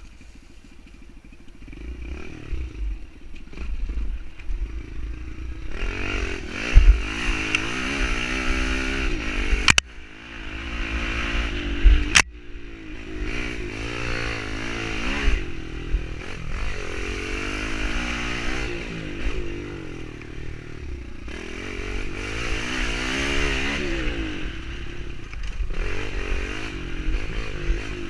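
Kawasaki KLX110L pit bike's small single-cylinder four-stroke engine revving up and falling back again and again as it is ridden around a track, with the throttle opened and closed through the corners. Two sharp knocks are heard about ten and twelve seconds in.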